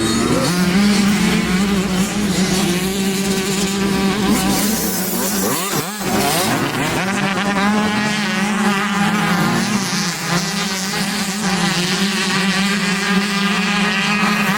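Motocross dirt bike engine running at steady high revs with a buzzing drone. About six seconds in the revs drop briefly and then pick up again.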